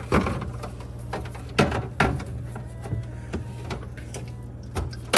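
Bottles and food containers knocking and clattering as they are set down and shifted on refrigerator shelves, with a handful of sharp knocks spread a second or more apart, over a steady low hum.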